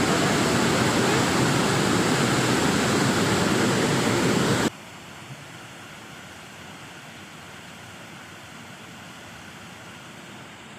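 Loud, steady rush of falling water. About halfway through it cuts off abruptly to a much quieter, steady rush.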